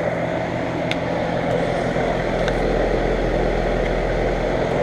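2012 American Standard 4-ton central air conditioner's outdoor unit running: a steady compressor hum under the rush of the condenser fan. A deeper low hum comes in about two seconds in and fades near the end.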